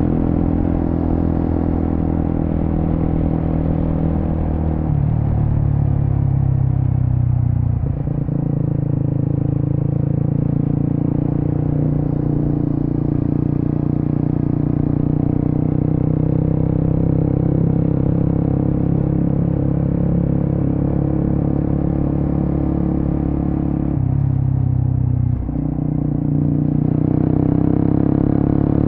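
Suzuki GSX-S150's single-cylinder 150 cc engine running on the move through an aftermarket Quinze big-volume exhaust. Its note holds fairly steady but steps in pitch a few times, with brief dips about eight seconds in and again about twenty-five seconds in.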